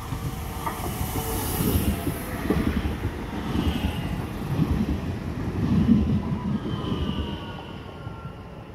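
Train running past on the rails: a low rumble that swells twice and fades near the end, with thin high wheel squeals a few times along the way.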